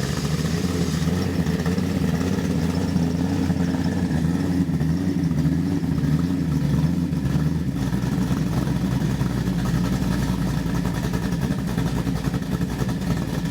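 Ford 347 cubic-inch stroker V8, a 302-based small block with Holley Sniper fuel injection, running steadily on an engine test stand just after start-up. A deeper low rumble joins about eight seconds in.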